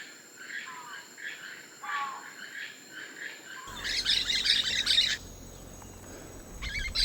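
Several birds chirping and calling, with a louder, denser burst of chirping a little past the middle.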